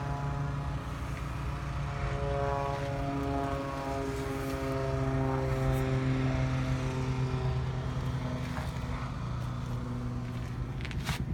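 A steady engine drone from a machine other than the parked truck, with many even tones whose pitch wavers slowly up and down. A few sharp clicks come near the end.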